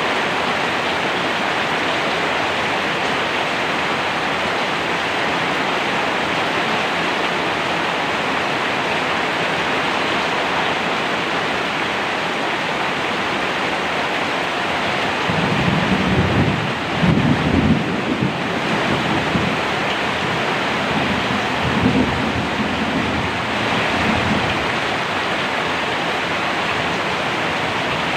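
Steady heavy rain pouring, with low rolling rumbles of thunder in the second half, loudest a little past halfway.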